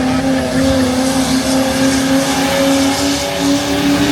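Diesel pickup truck engine held at high revs under load during a truck pull, its pitch holding steady and creeping up slightly.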